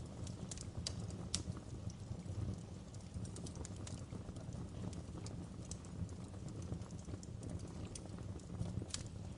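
Wood fire in a fireplace crackling: irregular sharp pops and snaps over a steady low rumble of burning logs, with a couple of louder pops.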